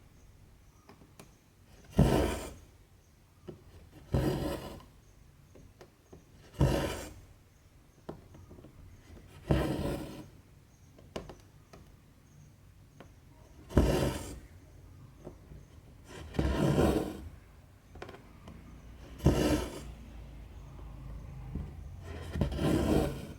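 Cotton embroidery thread drawn through 14-count cross-stitch fabric, stitch after stitch: a short rasping pull about every two to four seconds, eight pulls in all.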